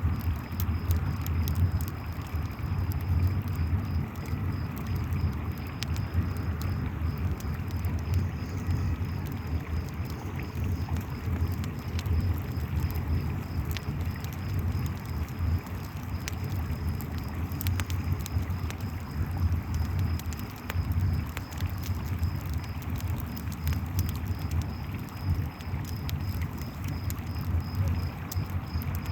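Campfire crackling with frequent sharp pops over a steady low rush of river water, and crickets chirping in a fast, even high-pitched pulse throughout.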